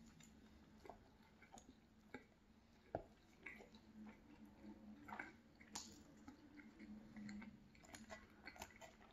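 Faint chewing of a mouthful of cheeseburger, with soft clicks and scrapes of a plastic spoon in a glass dip bowl and a plastic fork on a wooden board; one sharper click about three seconds in.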